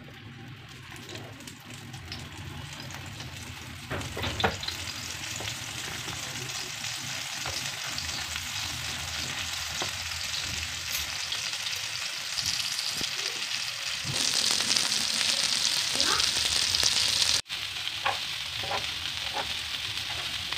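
Chicken shami kabab patties shallow-frying in hot oil on a flat pan: a steady sizzle that grows louder, loudest near the end. A couple of light knocks sound about four seconds in, and the sizzle breaks off for an instant near the end.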